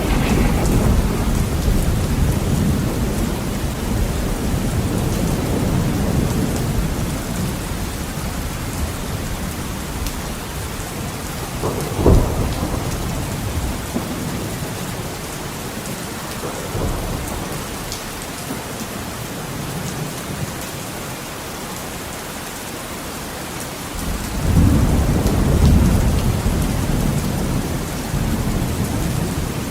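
Heavy rain beating steadily on a window, with thunder: a low rolling rumble that fades over the first several seconds, a single sharp crack partway through, and another rumble swelling up near the end.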